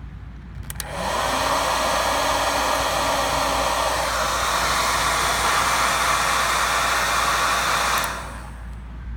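Electric body dryer switched on with a click. Its fan spins up into a steady rush of blown air, runs for about seven seconds, then is switched off and winds down.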